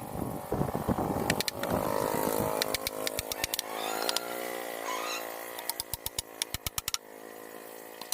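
Small ketinting longtail boat engine running. Its pitch rises and falls as it revs, then near the end it settles into a slow, uneven idle with separate firing pops several times a second.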